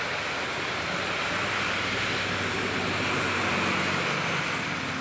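Heavy rain falling steadily, a continuous even hiss of a long-lasting downpour.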